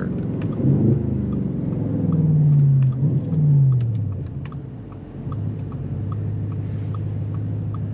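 The swapped-in 4.0-litre twin-turbo V8 of an Audi S5, heard from inside the cabin while driving; its note swells and sags twice, then eases off to a steady low drone about five seconds in. A faint regular ticking runs underneath, about three ticks a second.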